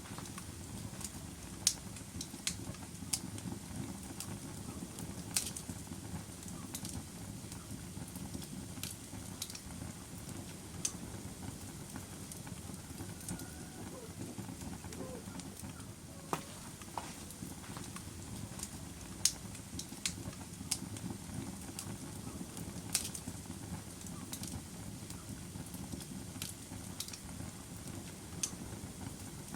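Log fire burning in a fireplace: a steady low rush of flames with sharp, irregular crackles and pops, roughly one every second or so.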